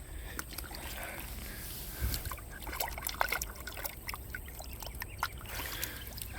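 Shallow river water trickling and dripping as bare hands sift through debris and broken glass at the water's edge, with a run of small sharp clicks and plinks from about two seconds in.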